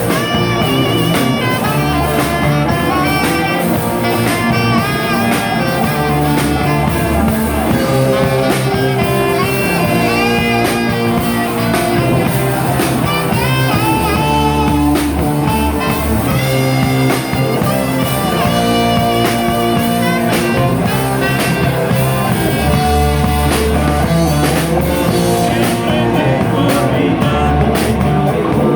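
Rock band playing live: electric guitar lines bending in pitch over bass and drums, in a bluesy rock style.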